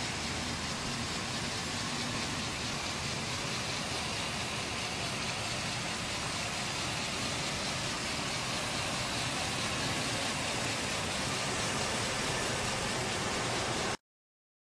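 Hummer H2 stretch limousine's engine idling steadily under a steady hiss, cutting off suddenly near the end.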